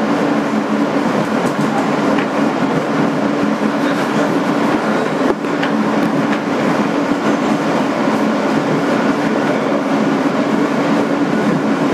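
2008 Kawasaki R160B subway car running between stations, heard from inside the car: a steady din of wheels on rail with a steady low hum from the Alstom ONIX AC traction motors. A few faint clicks come through, the loudest about five seconds in.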